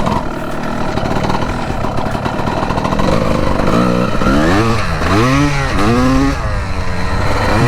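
Two-stroke dirt bike engine running under way. From about four seconds in it revs up and down several times, its pitch rising and falling with each twist of the throttle.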